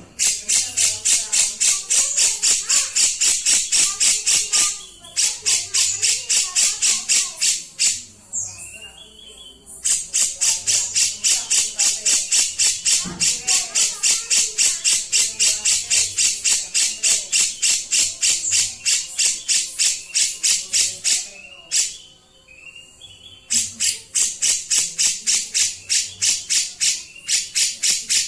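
Kapas tembak songbird giving rapid runs of sharp, high repeated notes, about four a second, in long bursts with short breaks.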